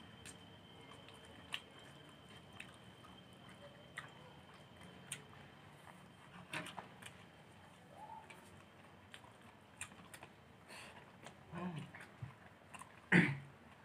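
Close-up mouth sounds of people eating rice and fish with their hands: chewing, with small scattered clicks and lip smacks, and one sharper, louder smack near the end.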